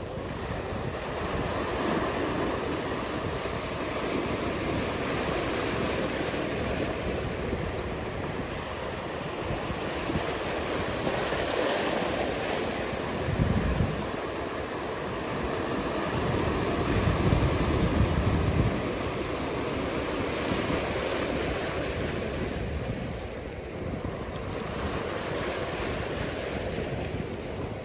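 Ocean surf washing steadily, with wind buffeting the microphone in low gusts about 13 seconds in and again around 17 to 18 seconds.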